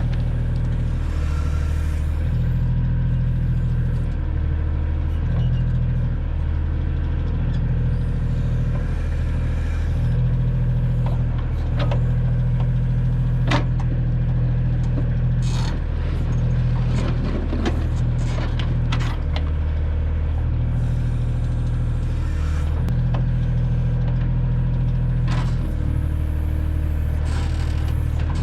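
Kioti tractor's diesel engine running under load while the backhoe digs, its note shifting every second or two with the hydraulic work. Scattered knocks sound over the engine.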